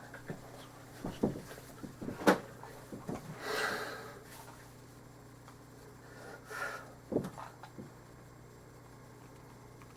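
Handling noises: a scattering of clicks and knocks, the loudest a little after two seconds in, with short rubbing or sliding sounds about three and a half and six and a half seconds in; after about eight seconds only a low hum remains.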